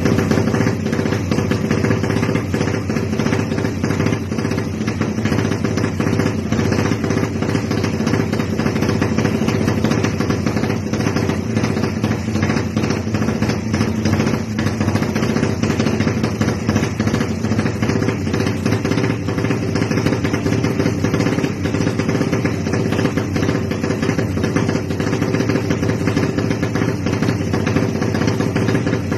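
Tuned 155 cc Suzuki Satria FU single-cylinder four-stroke engine running at a steady speed, with rapid, even firing pulses and no revving.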